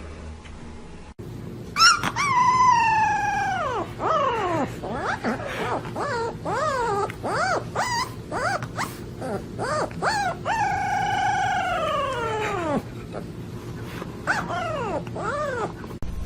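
A dog howling in two long notes that slide down in pitch, with runs of short yips that rise and fall between and after them.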